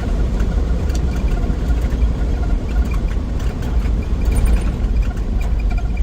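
1963 Willys Wagon's Tornado 230 overhead-cam inline-six engine running, a steady low rumble with faint scattered chirps or squeaks above it.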